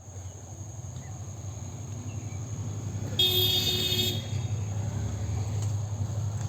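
Diesel locomotive approaching, its engine rumble growing steadily louder. About three seconds in comes one short horn blast of about a second.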